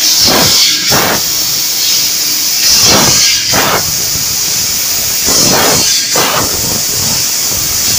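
FLT 6020S laser tube cutting machine cutting an exhaust pipe: a steady high hiss of cutting gas, with louder whooshing surges in pairs about every two and a half seconds.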